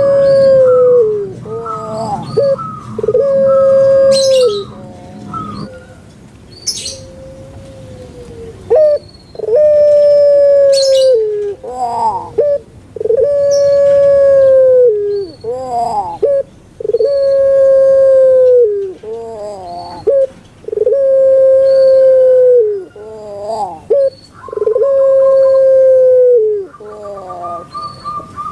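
Puter pelung (Barbary dove, Streptopelia risoria) cooing: a string of long, drawn-out coos, one about every two seconds, each held level and dropping in pitch at the end, with short rising notes in between.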